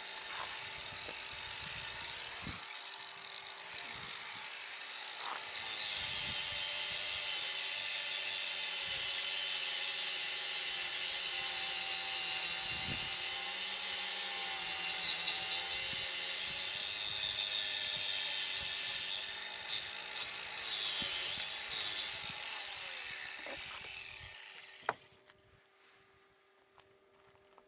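Power tool cutting wood: a quieter stretch, then a loud, steady high-pitched cut from about six seconds in to about nineteen, a few short bursts, and the tool running down and stopping near the end.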